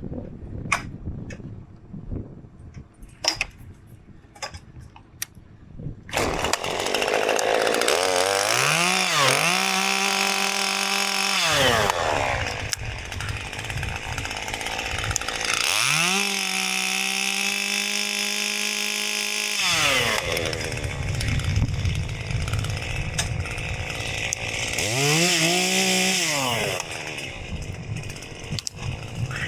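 A few sharp clicks, then a chainsaw starts about six seconds in. It revs up to full throttle three times, each burst held for a few seconds, dropping back to a lower running speed between them, as when pruning cuts are made in a tree reduction.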